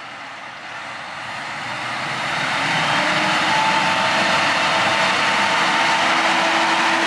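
A vehicle running close by: a rushing noise swells over the first few seconds, then holds steady and loud, with a faint steady hum.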